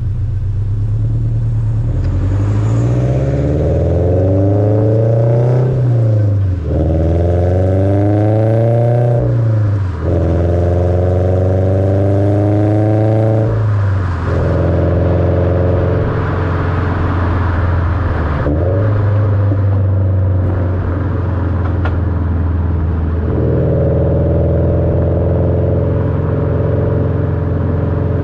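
2019 Subaru BRZ's flat-four boxer engine, breathing through unequal-length headers and a Borla cat-back with an Invidia over-pipe, accelerating hard. The engine note climbs, drops at two gear changes, and climbs again. After a third change about halfway through, it settles to a steady cruising note that steps up slightly near the end.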